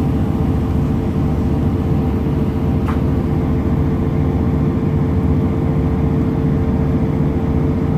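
Passenger train in motion, heard from inside the carriage: a steady running rumble with a constant hum under it. There is a single brief click about three seconds in.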